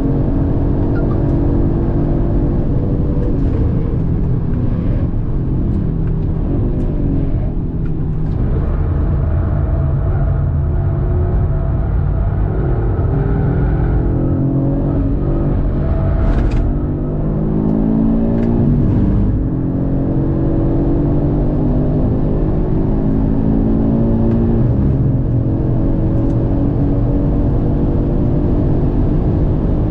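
Audi RS3's turbocharged 2.5-litre five-cylinder engine being driven hard on a race track, its revs climbing and falling again and again through gear changes and braking.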